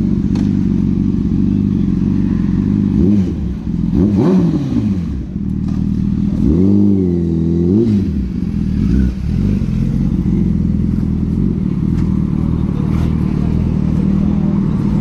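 A motorcycle engine idling, revved twice with the throttle: a quick rise and fall a few seconds in, then a longer rev held for about a second before it drops back to idle.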